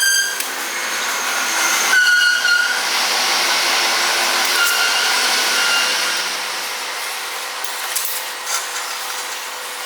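Angle grinder working metal: a steady hiss with short high whines as the disc bites.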